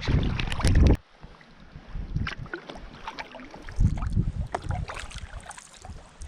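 Canoe being paddled: splashes and drips of water from the paddle, with light clicks and knocks and a few dull thumps. Wind buffets the microphone loudly for about the first second, then the sound drops off suddenly.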